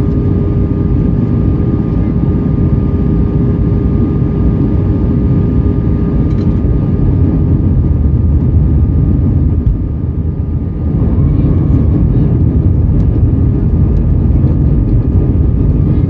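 Cabin noise of an Airbus A320-232 on approach to landing: a steady, loud low rumble of airflow and its IAE V2500 engines, with a steady hum over it. The noise dips briefly about ten seconds in.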